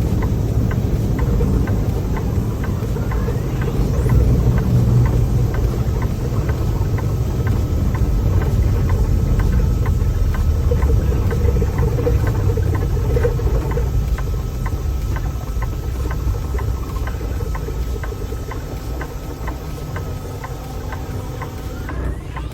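Semi truck's diesel engine running, heard from inside the cab as a steady low drone, while the truck is losing power from a computer fault. A steady faint ticking, about two to three a second, comes in after about six seconds.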